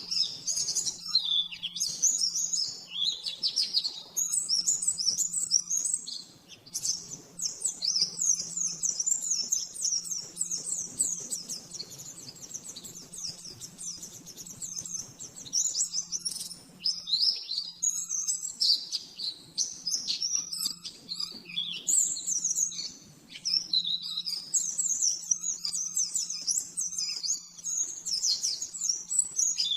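Pleci (white-eye) singing a long, rapid, high-pitched twittering song in fast runs of notes, almost without pause, with brief gaps about 6 seconds in and near the middle. A steady low hum sits underneath.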